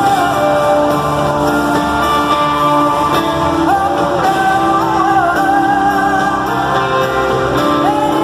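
Live stadium concert: a woman singing a pop ballad over a full band, holding long notes with vibrato.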